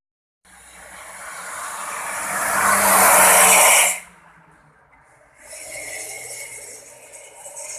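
Car fitted with a 'suos' whistle exhaust (Turbo Fire), giving a hiss that grows louder as the engine revs and cuts off suddenly about four seconds in; a second, quieter hiss starts about two seconds later.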